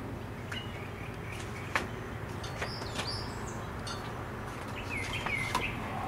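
Small birds chirping, short high calls and quick gliding notes, with a few sharp ticks, the loudest about two seconds in.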